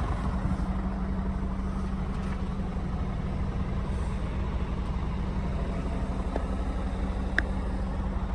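Scania R450 truck's 13-litre six-cylinder diesel idling steadily with a constant low drone, and a single short click near the end.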